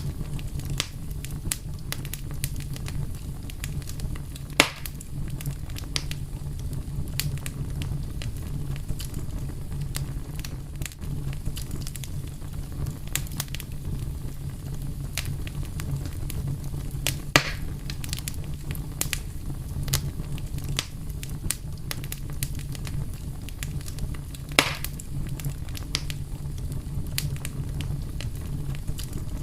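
Wood fire burning with a steady low rumble and continual small crackles, with three louder pops spread through.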